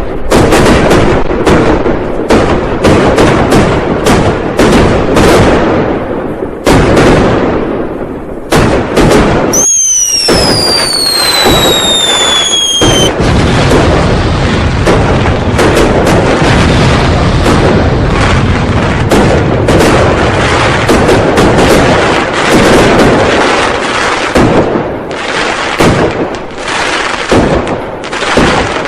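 Dense, unbroken barrage of firecracker and fireworks bangs. About ten seconds in, a whistling firework gives a falling whistle that lasts about three seconds.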